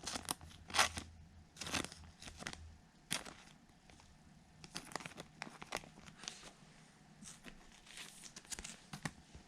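Baseball trading cards being handled and flipped through, with crinkling from the pack wrappers: a run of short, irregular rustles and scrapes.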